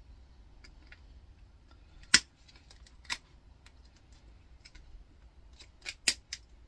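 A few sharp metallic clicks and snaps from hand tools working the clipped copper winding out through an electric motor's stator. The loudest comes about two seconds in, a second about a second later, and a quick cluster of three near the end.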